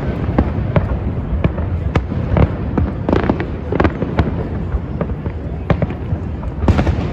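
Fireworks exploding in rapid, irregular succession: many sharp bangs and crackles over a continuous low rumble of distant booms, densest around the middle and again near the end.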